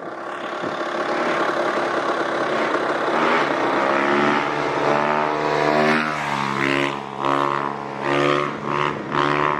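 Dirt bike engines running, growing louder over the first second or two, then revving up and down repeatedly as they ride.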